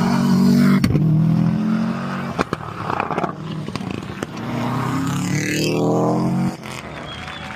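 Rally car engine running hard, with a few sharp cracks in the first three seconds. About halfway through it revs up steeply in one rising sweep, then cuts off abruptly near the end.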